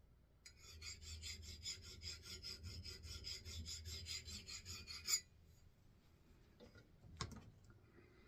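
Axe bit being hand-sharpened: quick, even back-and-forth scraping strokes, about five a second, for roughly five seconds, ending with one louder scrape. A couple of light clicks follow.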